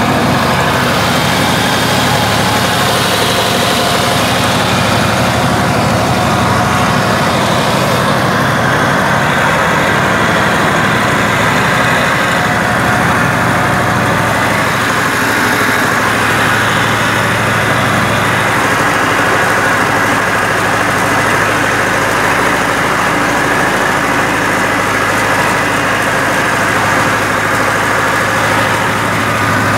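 Deutz F2L912 two-cylinder air-cooled diesel engine of a homemade tractor running steadily, its low note shifting slightly about halfway through.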